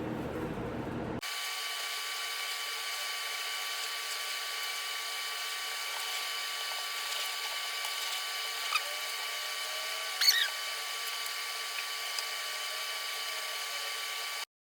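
A power tool running at a steady whine. It starts abruptly about a second in and cuts off suddenly just before the end, with two short squeaks partway through.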